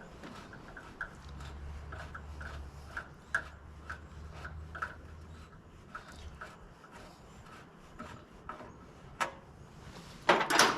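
A hole in the Jeep's bodywork being worked by hand: light metallic clicks at about two a second, with rubbing, while a thread is tapped or a screw driven in with cutting lube. A loud clattering rattle comes near the end.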